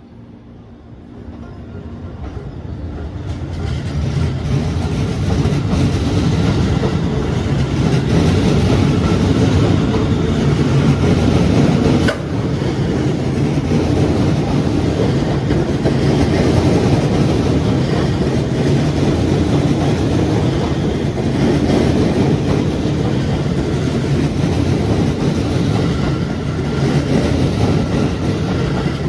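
Electric commuter trains running past along the platform: a loud, steady rumble of wheels on rails that builds over the first few seconds and then holds, with one sharp click about twelve seconds in.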